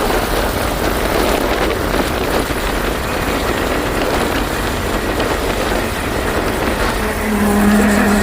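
1928 Ford Model A's four-cylinder engine running at road speed under a dense, even rush of wind and road noise; a steady humming tone joins near the end.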